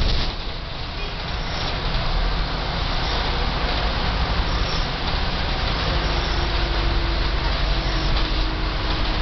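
Volvo B10M Mark II bus's mid-mounted six-cylinder diesel engine and ZF automatic gearbox running under load at speed, with road noise. It builds slightly in the first couple of seconds, then holds steady, and a faint whine comes in for the second half.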